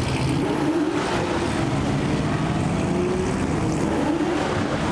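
Car engines running steadily, with a drone whose pitch wavers up and down.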